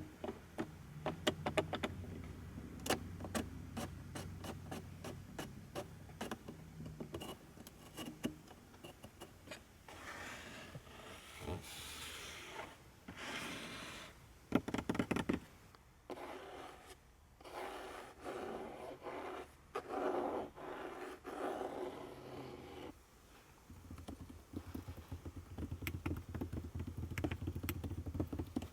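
Clicks, ticks and scrapes from the interior of a 1984 Mercedes-Benz 500SEL being handled, with a steady low hum under the first few seconds and again near the end.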